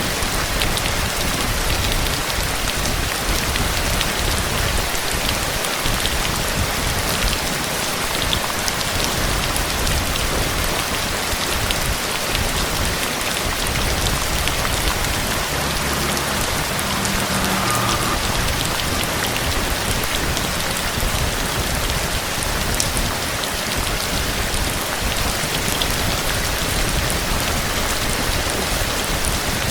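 Heavy rain falling steadily, a dense hiss with many individual drops ticking on a surface.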